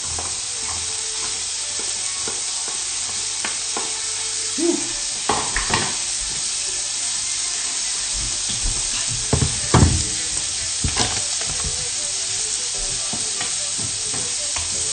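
Garlic frying in melted butter in a nonstick wok, a steady sizzle, with a few sharp knocks and clatters about five and ten seconds in.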